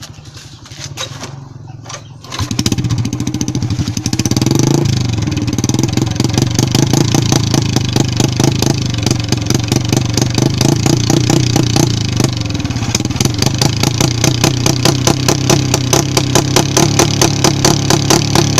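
Motorcycle engine with an aftermarket exhaust starting about two seconds in, revving up briefly, then running loud with an even, throbbing exhaust beat.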